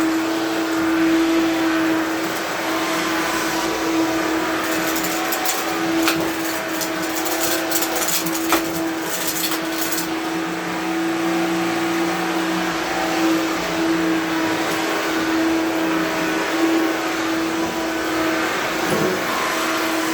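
1970s Hoover Dial-O-Matic Power Drive upright vacuum cleaner running steadily with one even hum, with a few seconds of crackling in the middle as it picks up debris.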